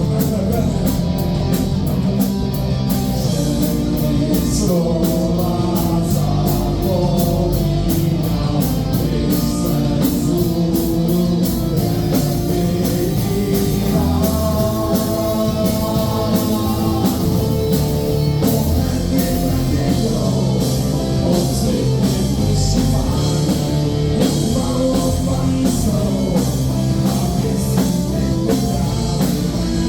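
Rock song with singing over electric guitar and drums, playing steadily throughout.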